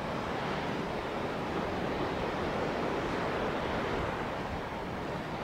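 Surf breaking and washing on a beach in a steady roar that swells slightly midway. The uploader wonders whether this is swell from Typhoon No. 2.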